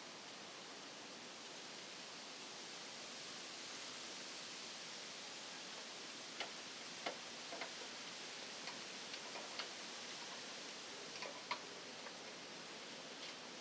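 Steady faint hiss with a scattering of light, sharp clicks and ticks, most of them between about six and twelve seconds in.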